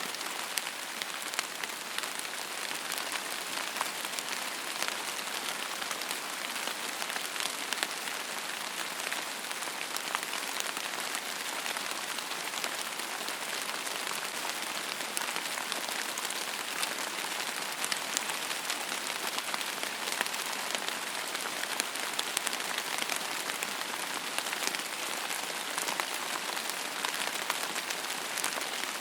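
Steady rain falling, an even hiss of many drops with individual drop ticks scattered throughout.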